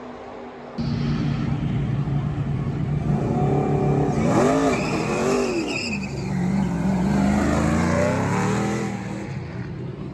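NASCAR Truck Series race trucks' V8 engines running at speed, starting loud about a second in, with the pitch swinging up and down as trucks go past.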